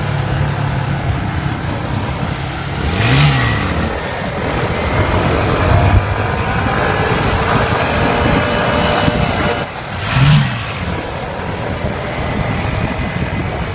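Honda MSX125 SF minibike's single-cylinder four-stroke engine running, revved sharply up and back down twice, about three seconds in and again near ten seconds.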